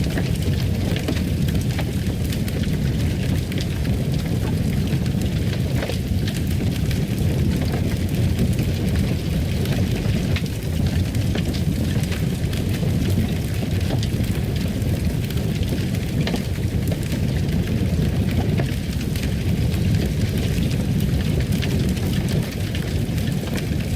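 Fireplace fire burning: a steady low rumble with many scattered small crackles.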